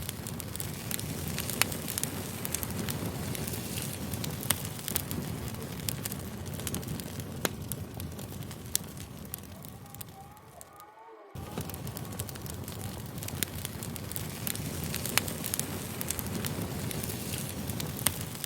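Campfire crackling, a steady hiss with scattered sharp pops. It fades and drops out for a moment just past halfway, then comes back suddenly.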